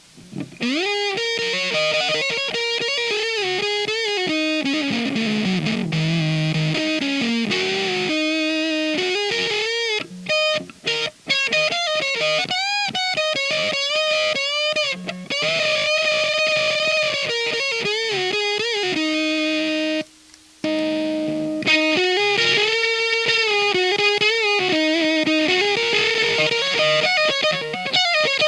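Electric guitar played through a Diaz Square Face-style fuzz pedal: a fuzzy lead line with string bends and vibrato, a descending run of notes a few seconds in, and some short choppy stops around the middle.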